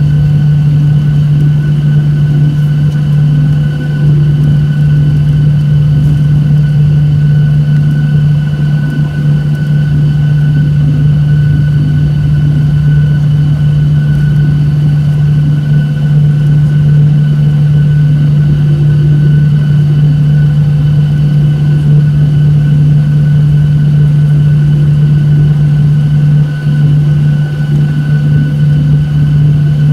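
Boeing 737-800 engines and airflow heard inside the cabin as a loud, steady low drone with a thin, steady whine above it, holding the same pitch throughout.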